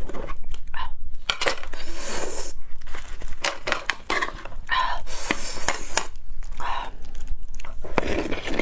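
Close-up eating of beef bone marrow, with repeated sharp clinks of utensils against a dish among noisy mouth sounds of eating.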